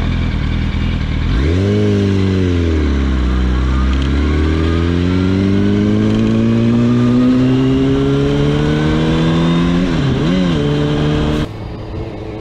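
Motorcycle engine revving: a quick rise and fall in pitch, then a long steady climb in pitch as the bike accelerates, and a short rev blip near the end. About a second before the end the sound cuts abruptly to quieter engine noise.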